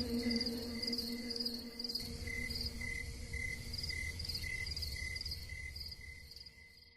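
Crickets chirping in a steady repeating pattern, about two chirps a second at two different pitches, fading out near the end.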